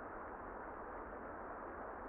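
Steady, muffled rain noise with the high end cut away, heard on its own without music.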